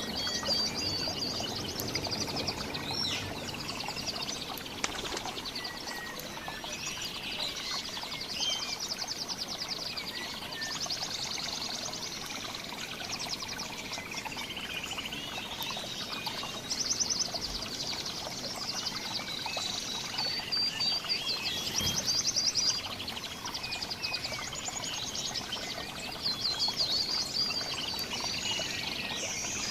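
Several small songbirds chirping and twittering, with rapid high trills coming in bursts a couple of seconds long, one after another.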